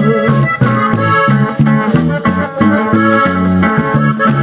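Norteño music, an instrumental break between sung verses: accordion melody over a steady, even bass rhythm.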